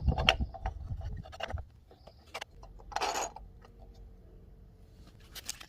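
Handling noises from parts and packaging being moved about: scattered light clicks and taps, with a short rustle about three seconds in.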